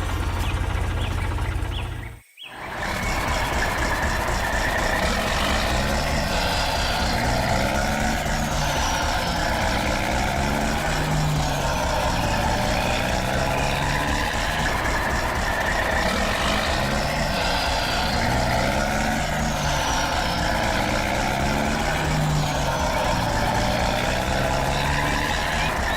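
A heavy vehicle engine running steadily, with a brief break about two seconds in.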